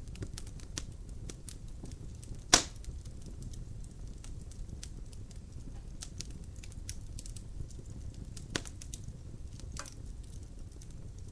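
Wood fire crackling in a fireplace: scattered small clicks over a low rumble of flame, with one loud pop about two and a half seconds in and two smaller pops later on.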